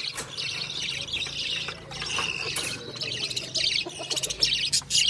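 Small pet parrots chirping and chattering continuously, dense and busy, with scattered clicks and knocks.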